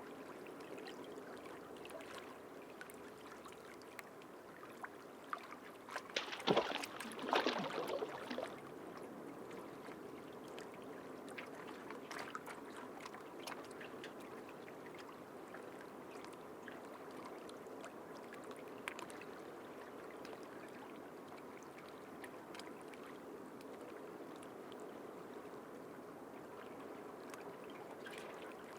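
Shallow sea water lapping and trickling, with scattered small clicks. A louder burst of splashing comes about six seconds in and lasts about two seconds.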